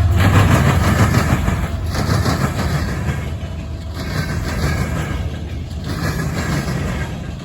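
A passing train: a low locomotive engine hum fades right at the start, then the cars roll by with a regular pulsing clatter of wheels over the rails, slowly getting quieter as the train moves away.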